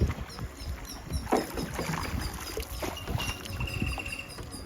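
Water sloshing and knocking around a bamboo river raft as it moves along, in irregular low knocks and splashes. A short, steady high note sounds near the end.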